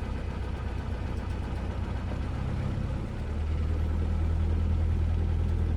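Cessna 172S's four-cylinder Lycoming engine and propeller running at low power, heard from inside the cabin; about three seconds in the engine note steps up slightly and grows louder.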